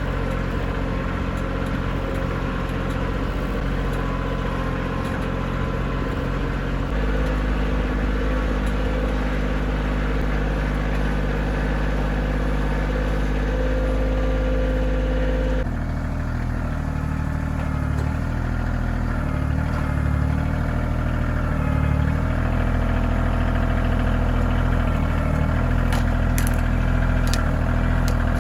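Kioti CK2620 compact tractor's three-cylinder diesel engine running steadily while the tractor is driven, its note stepping down about a third of the way in and changing again about halfway through.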